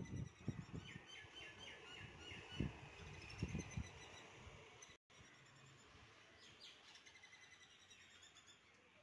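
Birds chirping in the background with quick repeated high notes, and a few soft low thuds in the first four seconds. The sound drops out completely for a moment about five seconds in.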